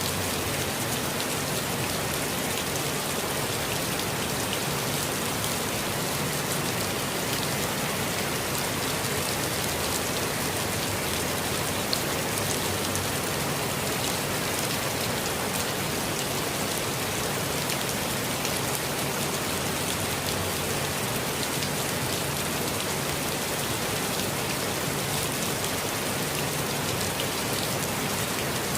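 Steady, gentle rain falling in a forest: an even hiss of rainfall with many small drop ticks scattered through it.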